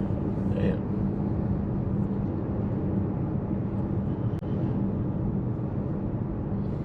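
Car cabin noise while driving: a steady engine hum with low road rumble, and a single sharp click about four seconds in.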